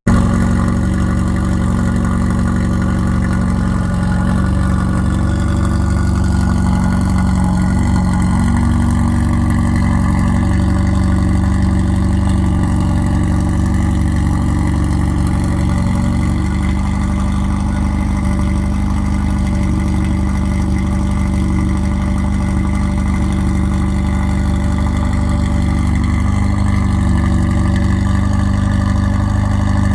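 Volkswagen Golf GTI engine idling steadily, loud and even, with the quieter idle of other car engines running beside it.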